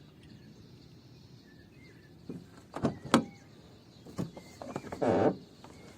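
Clicks and clunks of an old Hyundai Santro's door and handle being worked: several sharp clicks from about two seconds in, the loudest about three seconds in, then a longer scraping sound near the end. The door is being opened from the outside handle because it will not open from the inside.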